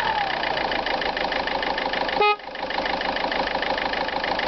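Peugeot-Citroën 1.4 HDi four-cylinder turbodiesel idling with an even, rhythmic diesel clatter, having just settled back from a rev. About two seconds in there is a short, loud beep.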